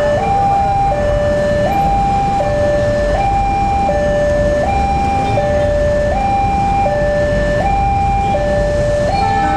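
Railway level-crossing warning alarm sounding a steady two-tone signal, high and low notes alternating about every 0.7 s, which warns that a train is approaching. A train horn starts just before the end.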